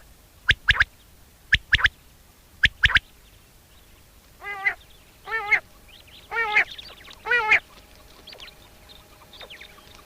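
Common quail calling: three quick sets of sharp, clipped notes in the first three seconds, then four longer, lower calls with a wavering pitch from about halfway through. Faint chirps continue near the end.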